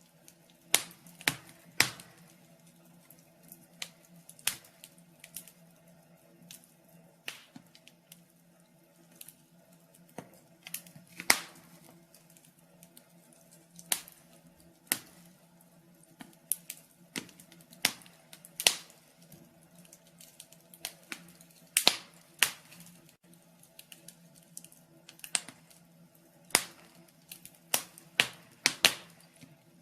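Firewood burning in a fireplace, crackling with irregular sharp pops and snaps, some much louder than others, over a faint steady hum.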